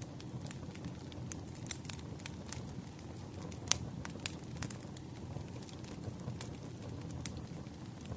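Wood fire crackling: scattered sharp pops and snaps over a low steady rumble, with one louder pop a little past the middle.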